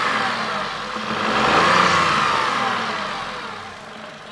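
Tata Altroz's 1.2-litre three-cylinder naturally aspirated Revotron petrol engine revved with the bonnet open: it falls back from one rev, rises again about a second in, then settles back toward idle near the end.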